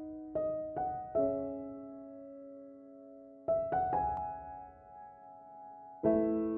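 Slow, gentle background piano music. Notes and chords are struck and left to ring out, with a fuller chord about six seconds in.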